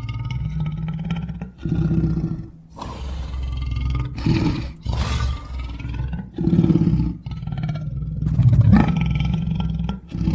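Wolf growls used as a creature sound effect: deep rumbling snarls that swell in repeated surges, with thin wavering whine-like tones above them.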